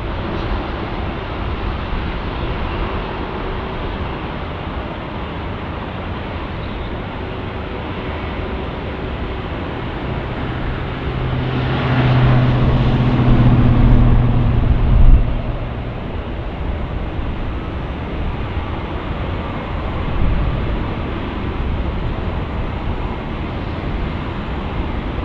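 Steady rumble of engine and traffic noise around the airport, swelling for a few seconds in the middle as a vehicle or aircraft with a low steady hum passes close by.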